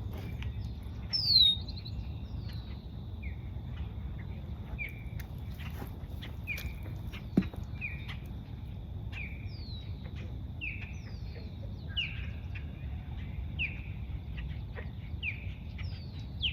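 Osprey calling: a long series of short, falling whistled chirps, roughly one a second, with a louder, higher falling call about a second in.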